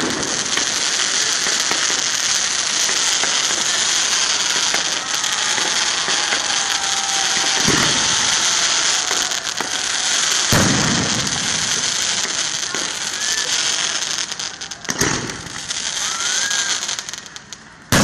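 Fireworks finale: a dense, continuous hiss and crackle from ground fountains and bursting stars, broken by a few heavier bangs, about eight, ten and fifteen seconds in. The crackle thins over the last few seconds, and a sharp bang comes at the very end.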